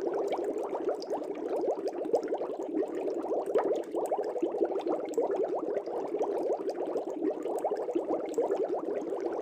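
Aquarium water bubbling: a continuous, dense stream of small bubbles, with faint ticks and pops over it.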